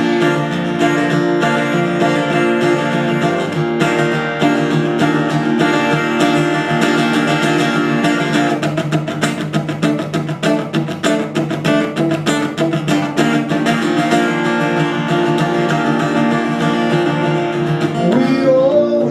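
Acoustic guitar strummed in an instrumental passage of a solo song, the strumming busiest about halfway through. A singing voice comes back in near the end.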